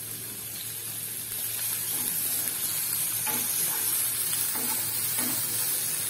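Chopped garlic, ginger and green chilli sizzling in hot oil in a non-stick wok, stirred with a wooden spatula.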